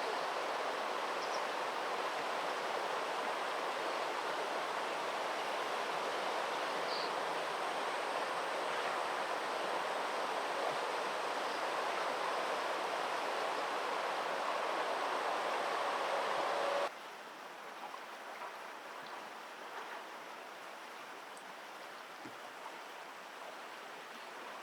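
Steady rush of flowing stream water. About seventeen seconds in it cuts off abruptly to a much quieter background hiss.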